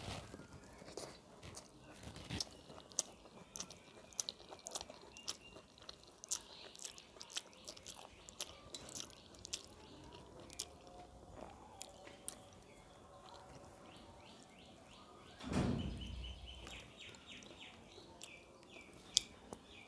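Close-up eating sounds: chewing and crunching of crisp fried food with rice, many small sharp crunches. There is one louder thump about three-quarters of the way in.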